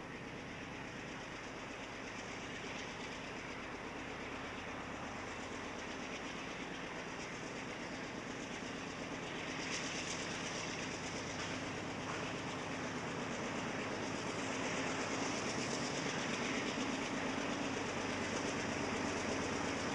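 Freight train with diesel-electric locomotives running, growing steadily louder as it draws closer; a higher hiss comes in about halfway through.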